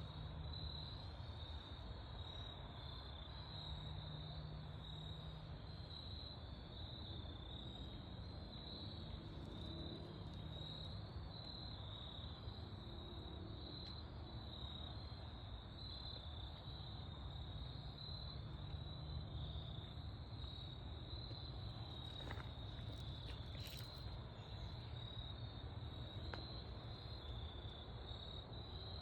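Autumn crickets chirping in a steady chorus, a continuous high-pitched pulsing trill, over a constant low rumble of background noise.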